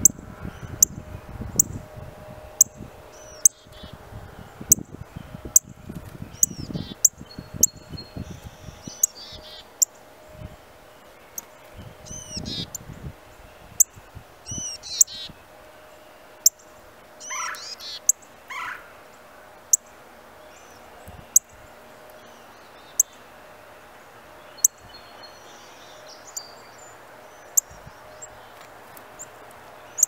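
Songbirds calling, with several short whistled calls sweeping up and down in pitch between about ten and nineteen seconds in. Sharp ticks come roughly once a second throughout, and low rustling runs through the first ten seconds.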